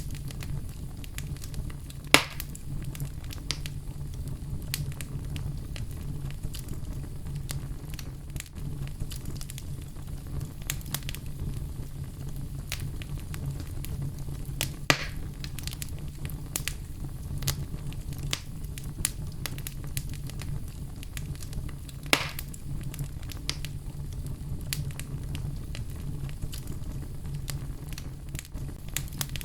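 Wood fire burning in a fireplace: a steady low rumble of flames under frequent small crackles, with three louder pops about two, fifteen and twenty-two seconds in.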